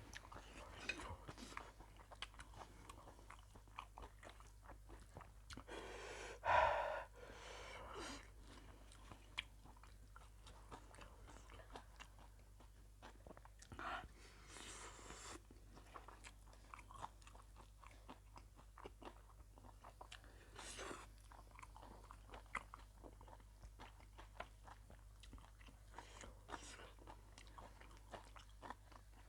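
Close-miked chewing and biting with soft crunches and wet mouth clicks: a person eating a spicy mee sua noodle salad with chicken feet in full mouthfuls. Now and then there is a louder short burst, the loudest about six seconds in.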